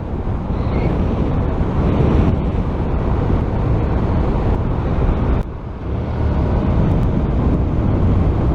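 Wind rushing over a helmet-mounted camera's microphone on a moving motorcycle, with engine and road noise underneath. The noise dips briefly about five and a half seconds in, then comes back.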